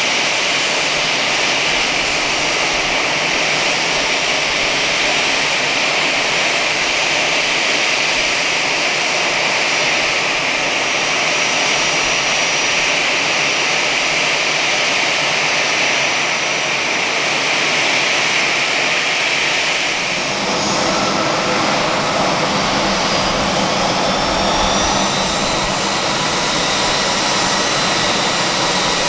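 Airbus A320-214's CFM56 jet engines running with a steady hissing whine. About twenty seconds in the sound shifts and a thin rising whine comes in, then holds steady.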